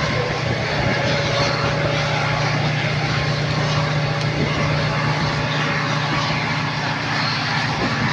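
The Millat Express passenger train running at speed, heard from aboard a coach: a steady rumble and rush of the moving train, with a constant low drone underneath.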